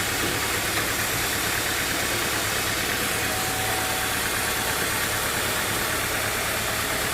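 Sawmill engine running steadily, an even mechanical drone with no breaks.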